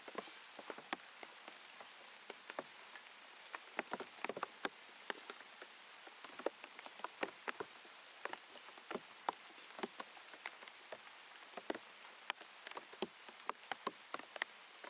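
Raindrops tapping irregularly on a plastic sheet wrapped over the camera, several sharp pops a second, over a steady hiss of rain.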